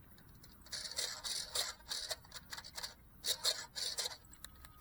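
Irregular rustling and scraping in short bursts, like things being handled or rubbed close to the microphone.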